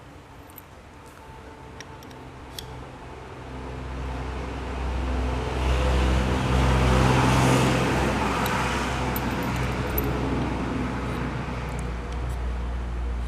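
A motor vehicle passing close by, its noise swelling to a peak about seven seconds in and then easing off, with a few light metallic clicks in the first seconds.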